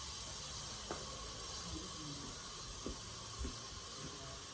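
Quiet room tone: a faint steady hiss with a few soft knocks.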